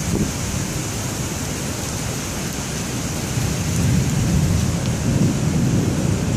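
Heavy wind-driven rain hissing in a severe thunderstorm, under a low rumble that swells about three and a half seconds in.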